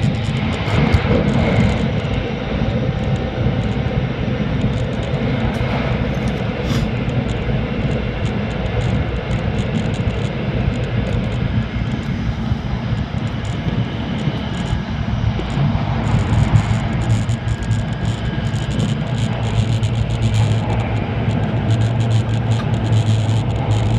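Steady running noise inside a Hokuriku Shinkansen car travelling at speed: a continuous rumble and rush, with a low hum that grows stronger in the last few seconds.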